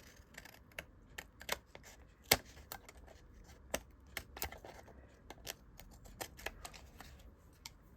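Scissors and paper scraps being handled: a run of irregular light clicks and snips, with one sharper click a little over two seconds in.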